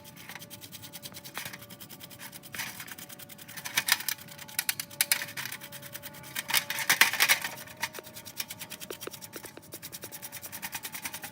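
Scraping and rubbing on rusty metal in uneven bursts of rapid strokes, typical of rust being cleaned off by hand, with a faint steady hum underneath.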